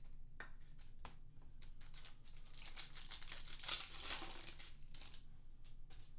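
A trading-card pack's foil wrapper crinkling and tearing as it is ripped open, with a couple of clicks first and the crackle loudest about four seconds in.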